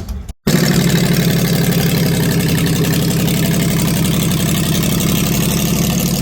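Car engine idling steadily and loudly, with a fast, even pulse, cutting in just after a brief break near the start.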